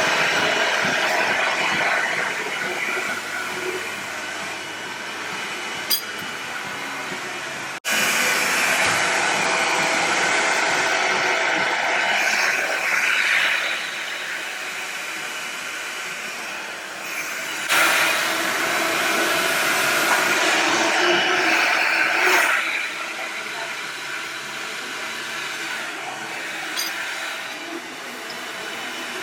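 Hand-held hair dryer blowing steadily, a loud rushing of air. It breaks off abruptly about eight seconds in and comes back louder about ten seconds later.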